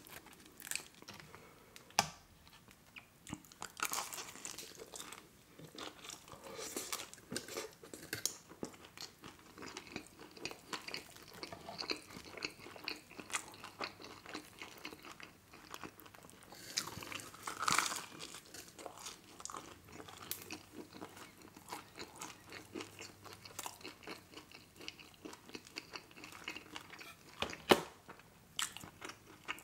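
Close-up chewing and crunching of crisp pizza crust, a steady run of small crackles with a few sharper crunches, the loudest near the end.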